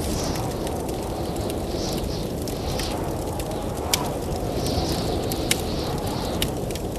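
Blizzard wind blowing steadily with a low rush, over a wood fire crackling with scattered sharp pops, the loudest about four seconds in and another about five and a half seconds in.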